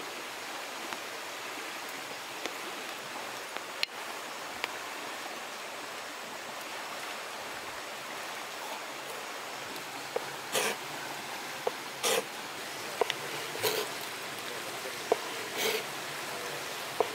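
Steady hiss of rain falling. From about ten seconds in, a ladle stirs in the cooking pot: a few sharp clinks and scraping strokes roughly every second and a half.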